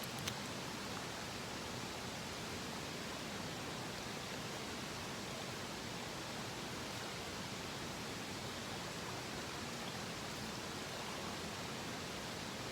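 Steady, even rush of water, with one faint click just after the start.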